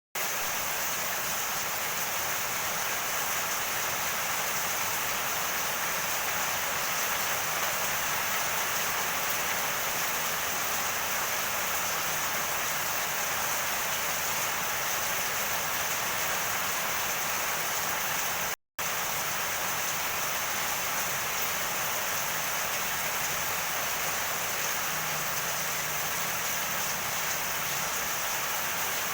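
Heavy rain pouring down in a steady, even hiss. It cuts out for an instant about two-thirds of the way through.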